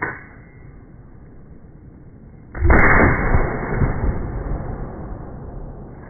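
A single loud gunshot about two and a half seconds in, with a long echo that fades over some three seconds. A light mechanical click comes just at the start.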